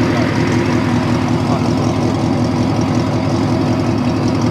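Car engine idling steadily, a loud, even low rumble.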